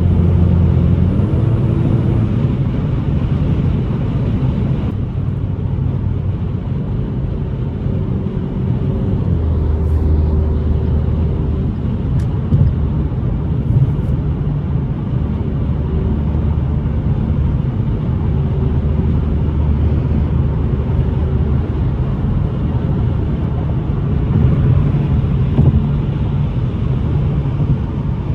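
Ford Mustang's turbocharged 2.3-litre four-cylinder engine running while the car is driven, with road rumble underneath. The engine hum steps up and down in pitch several times as the speed changes.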